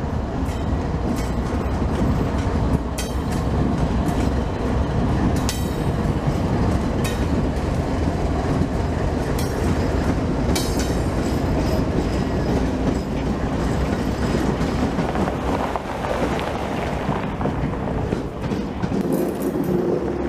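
Freight train led by the GE diesel locomotives NS 8105 and NS 9887 passing close by: a steady rumble of engines and rolling stock, with steel wheels clicking and knocking at irregular intervals over the rail joints.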